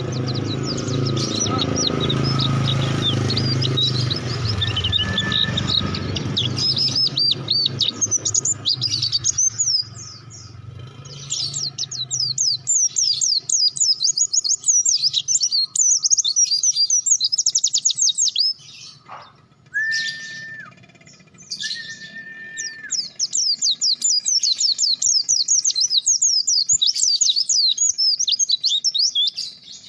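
A pleci (white-eye) singing a fast, high twittering song in long runs, with breaks about a third and two-thirds of the way through. A low hum sits under the first part, and two short steady whistle tones come during the second break.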